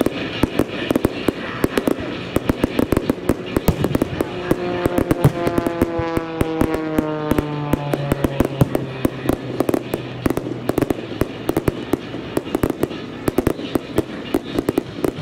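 Fireworks crackling and popping in rapid succession, many sharp reports a second, over music. About halfway through, a held chord sinks slightly for a few seconds.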